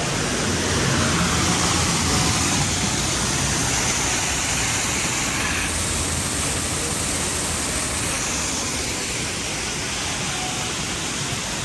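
Steady rushing noise with no clear rhythm or tone, a little brighter in the treble for a couple of seconds in the middle.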